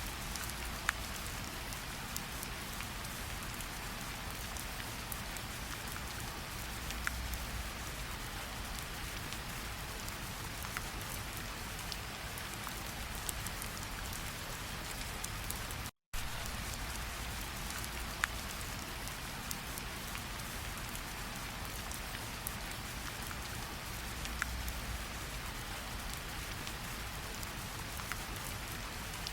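Steady rain falling, with scattered single drops ticking sharply above the hiss. The sound cuts out for a split second about sixteen seconds in.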